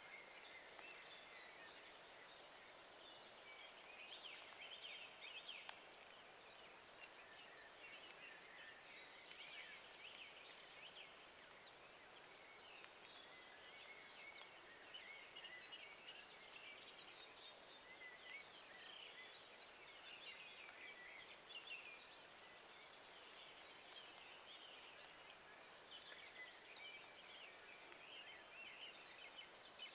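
Faint, continuous twittering of birds: irregular clusters of short high chirps over a low outdoor hiss.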